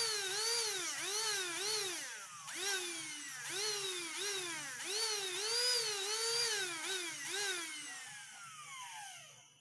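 Small high-speed rotary tool whining, its pitch dipping and recovering about twice a second as it bites into the work, used for grinding and polishing an earring. Near the end it spins down with a falling whine and stops.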